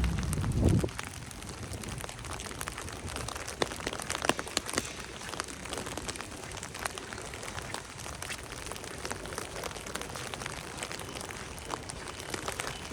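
Falling wet snow and rain: a steady hiss with irregular sharp ticks of drops landing close by. A low vehicle rumble cuts off within the first second.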